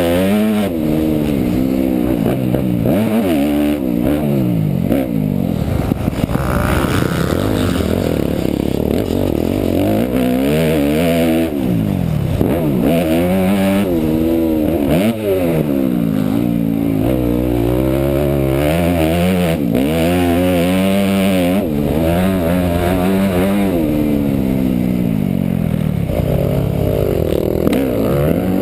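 Motocross bike engine revving hard and easing off again and again, its pitch climbing and dropping many times over.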